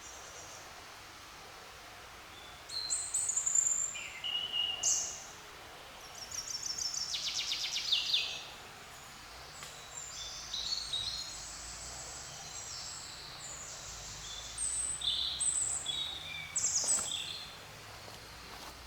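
Songbirds singing in bursts of short high phrases, including one fast trill, over a steady background hiss of forest ambience.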